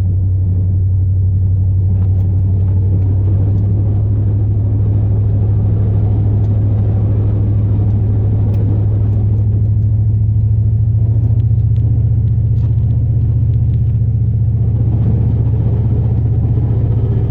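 Steady in-cab drone of a 2002 Chevrolet Silverado plow truck's 8.1-litre big-block V8 cruising, with road noise underneath; the engine's hum rises slightly in pitch about two-thirds of the way through.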